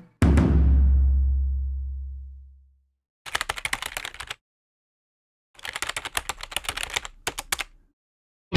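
A deep boom that fades over about two and a half seconds, then two bursts of rapid clicking like keyboard typing, laid in as edited sound effects between stretches of music.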